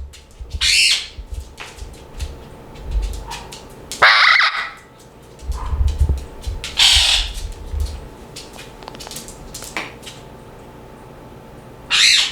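Pet parrots squawking: four loud calls a few seconds apart, with low bumping and rustling underneath during the first eight seconds or so.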